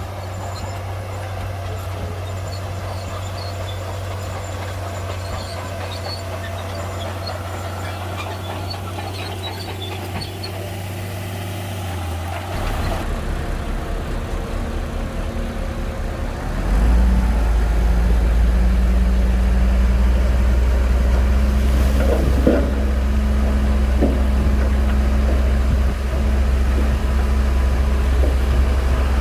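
Shantui crawler bulldozer's diesel engine running steadily. Its note changes about 12 seconds in and it grows markedly louder about 17 seconds in as it takes on more power, with a few short knocks after that.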